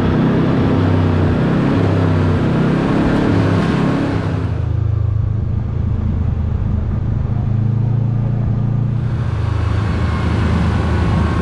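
Off-road side-by-side engine running as the vehicle drives off, its pitch shifting a little with the throttle. It sounds duller for a few seconds in the middle.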